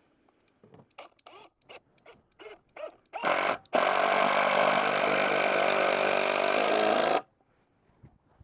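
A few light taps and clicks of handling, then a cordless drill driving a screw into lumber: a short burst, a brief pause, and about three and a half seconds of steady running at an even pitch that stops abruptly.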